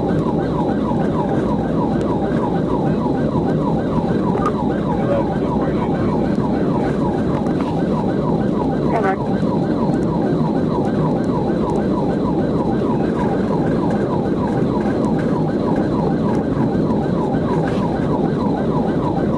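Police car siren in rapid yelp mode, sweeping up and down about four times a second, over heavy engine and road noise from a car at pursuit speed.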